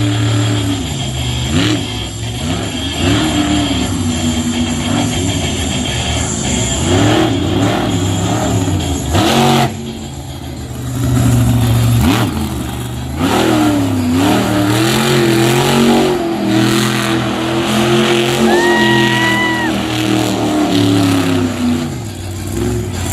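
Monster truck engine revving hard again and again, its pitch climbing and dropping in repeated surges. A brief high whistle sounds near the end.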